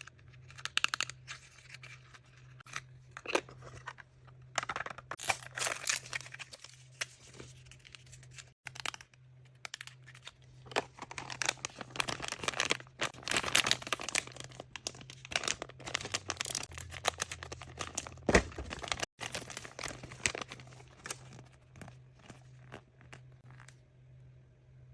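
Packaging wrappers of surprise toys being crinkled and torn open by hand, in a dense run of irregular rustles and rips.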